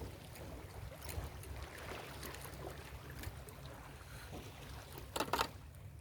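Ocean surf washing and fizzing on a beach, with a low rumble underneath, and a short, louder rush about five seconds in.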